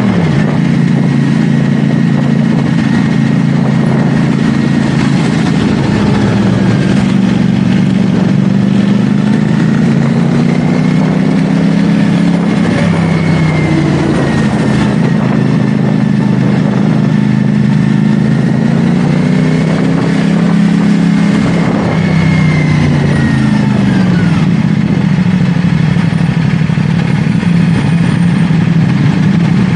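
CFMoto 450SR S motorcycle's parallel-twin engine running under way, its pitch rising and falling gently with the throttle. The pitch drops sharply right at the start and again about two-thirds through.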